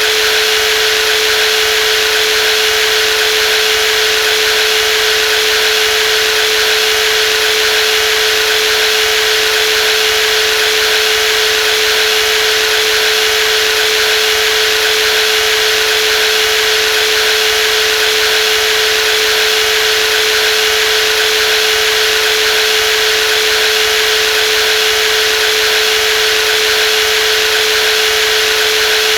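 Brushless jigsaw running continuously at a constant speed: a steady whine over a bright, even buzz, with no change in pitch or level.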